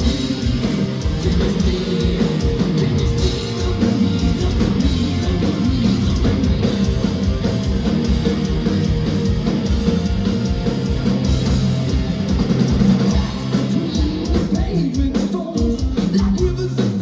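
Heavy metal band playing live and loud: electric guitars and a pounding drum kit, with singing over them. The drumming turns choppier with short breaks about three-quarters of the way through.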